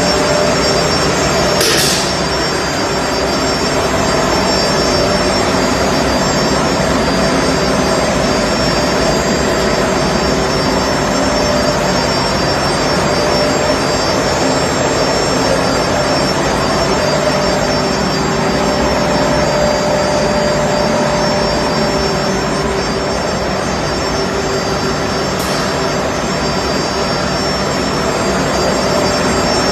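Industrial microwave drying and sterilization machine running with a steady loud mechanical noise and a steady whine over it. A short hiss comes about two seconds in, and another near the end.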